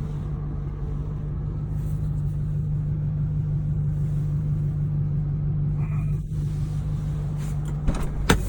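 Audi R8's V8 engine idling steadily through an Avior aftermarket exhaust, a low even rumble, with a couple of sharp clicks near the end.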